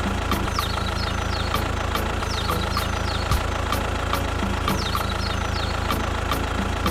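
Tractor engine idling steadily with a low hum, while birds chirp in short falling calls every couple of seconds.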